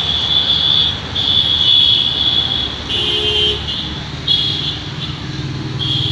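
A vehicle running, with a shrill, high-pitched tone sounding on and off in several irregular spells of up to about a second and a half. A short lower toot comes about halfway through.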